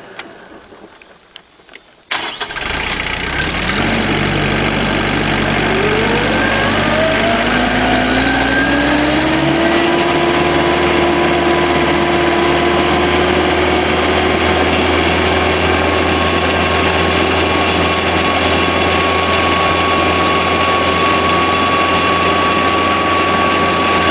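SAME 35 hp turbocharged diesel tractor engine starting up suddenly about two seconds in, after a short lull. Its pitch rises over several seconds, then it runs steadily. This tractor has a fault where it starts but will not stay running.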